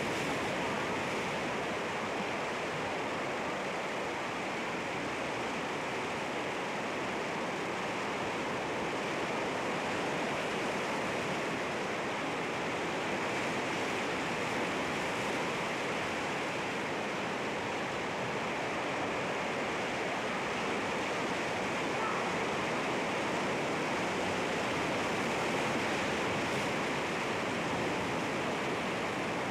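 Sea waves washing against rocks, a steady surf noise that swells and eases only slightly.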